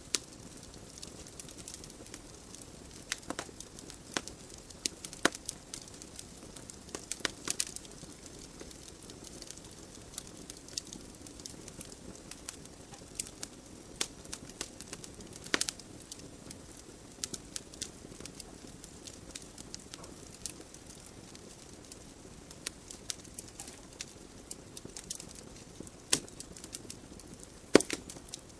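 Wood logs burning in a fireplace: irregular sharp crackles and pops over a steady soft hiss of flames, with a few louder pops scattered through.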